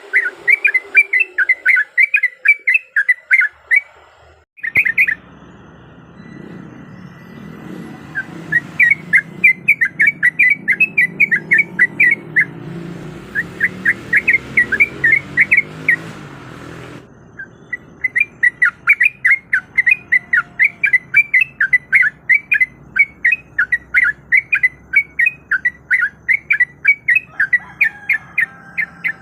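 Yellow-vented bulbul (trucukan) calling in runs of quick, sharp notes, several a second, broken into phrases by short pauses. A low hum lies under the calls in the middle stretch.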